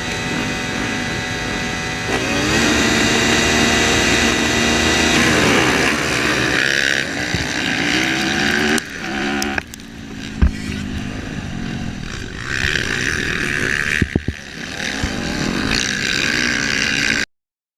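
Vehicle engine running, its pitch rising and falling as it revs, over road noise. Sharp knocks come about ten seconds in and again a few seconds later.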